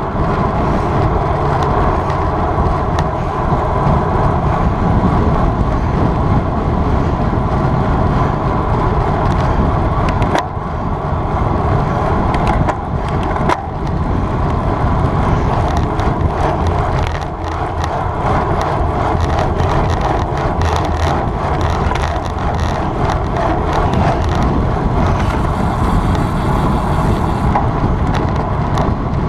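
Wind rushing over the microphone and road-bike tyres rolling on asphalt: a steady, loud rush and rumble, with a few small clicks.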